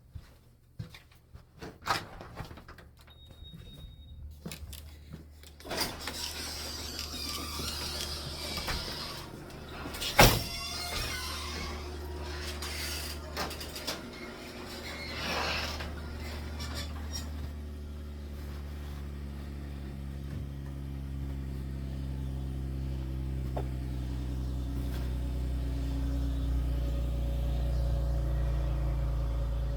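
Scattered clicks and a sharp knock, then a motor vehicle running steadily, its low drone slowly growing louder.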